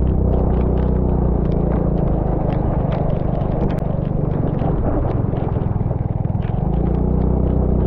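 Vehicle engine running steadily, with frequent short knocks and clatter throughout; the engine note weakens for a couple of seconds in the middle and then picks back up.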